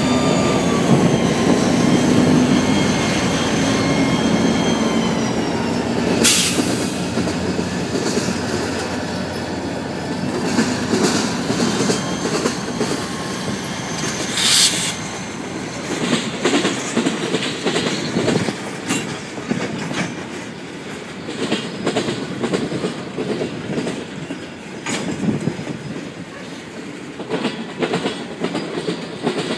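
CSX diesel-hauled freight train passing close by. Over the first few seconds a high whine with several tones slowly falls in pitch over a low rumble as the locomotive moves off. Then tank cars roll past with a steady clickety-clack of wheels over the rail joints, broken by two brief loud rushes of noise about 6 and 15 seconds in.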